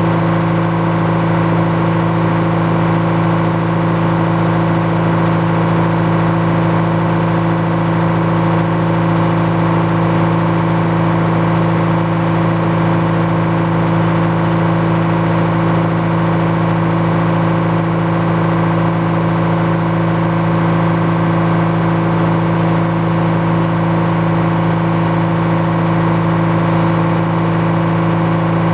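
The engine and saw of a Frick sawmill running at a steady speed, an even, unchanging hum with no rise or fall in pitch.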